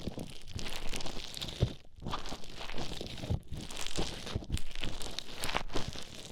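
Play Foam worked and mixed close to the microphone with an ear pick: a dense crackling and crunching of squished foam beads, broken by a few brief pauses.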